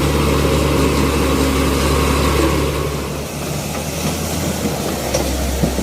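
Heavy diesel engine of road-construction machinery (motor grader or compactor) running steadily at low revs. Its note shifts and its level dips a little about three seconds in.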